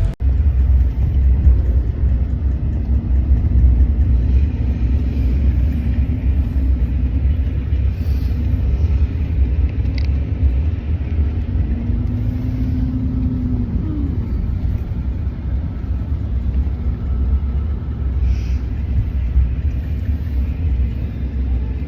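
Steady low rumble of a moving vehicle heard from inside, with a brief faint rising tone about halfway through.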